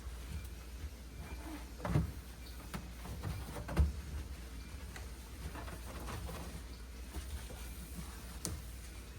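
Light clicks and clunks of things being handled and set down while a refrigerator is cleaned out, with two louder thumps about two seconds in and nearly four seconds in. A steady low hum runs underneath.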